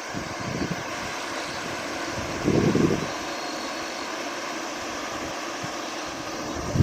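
Steady rushing outdoor noise, with wind buffeting the microphone in low gusts, the strongest about two and a half seconds in.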